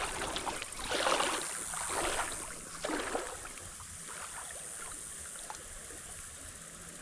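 Creek water running, with a few louder splashing swells in the first few seconds before it settles to a steady wash.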